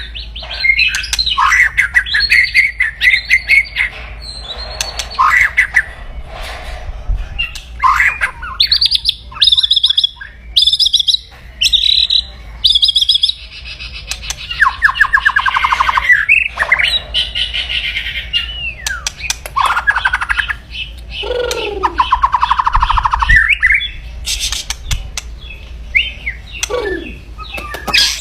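White-rumped shama (murai batu) singing aggressively in 'kretekan' style: loud bursts of fast rattling trills, broken by short whistled and harsh notes and a few gliding notes, with only brief pauses.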